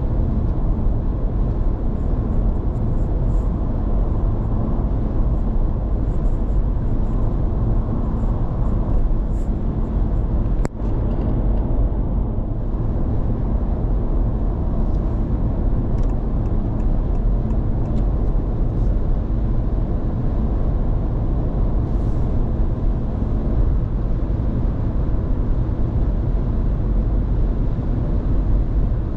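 Steady road and tyre noise heard inside the cabin of a Honda ZR-V cruising on an expressway, mostly a low rumble, with a momentary drop in level about eleven seconds in.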